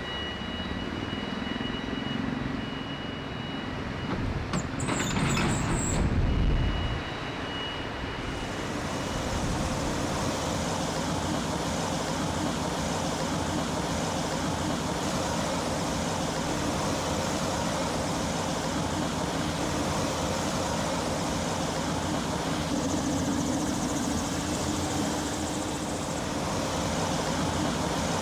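A vehicle engine running steadily, with a brief louder burst about five seconds in.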